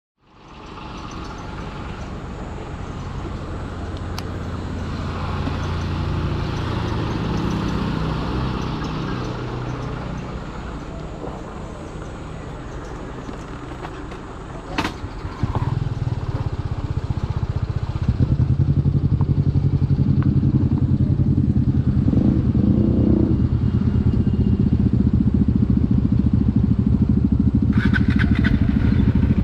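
Husqvarna Vitpilen motorcycle engine and exhaust running while riding, its pitch rising and falling in the first half. A sharp click comes about fifteen seconds in, then the engine gets louder and runs steadily from about eighteen seconds on.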